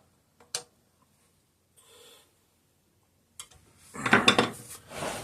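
Light clicks from a screwdriver on the ignition coil's Phillips-head screws as they are tightened down, then about a second of rasping, scraping noise near the end.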